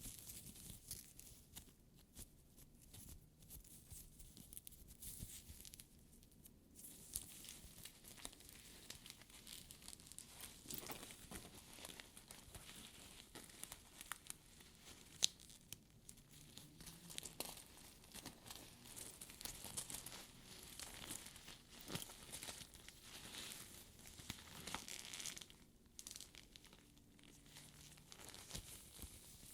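Hands rubbing and handling a faux-leather purse's fabric lining, turned inside out, with quiet crinkling and rustling broken by many small ticks. One sharper tick comes about halfway through.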